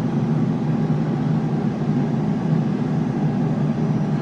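Air fryer running with a steady fan hum.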